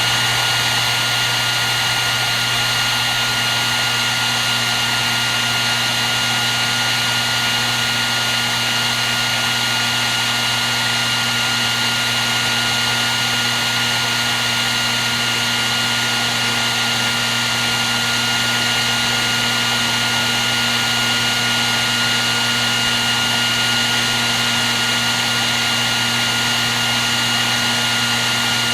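Hair dryer running continuously at one steady setting: a rush of blown air over a low motor hum and a thin, steady high whine.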